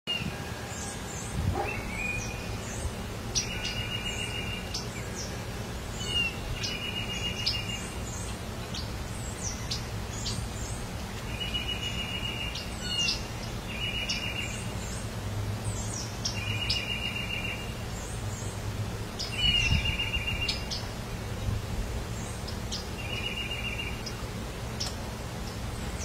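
Songbirds calling: one short call repeated about every two to three seconds, with thin high chirps scattered between.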